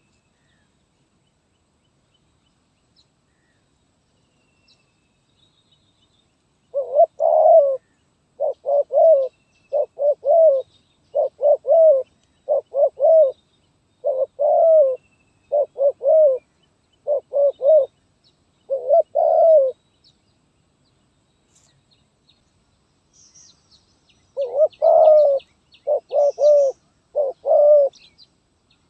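Spotted dove (terkukur) cooing: after several seconds of quiet, a run of about nine short low coo phrases, a pause, then three or four more near the end, with faint chirping of small birds in the background.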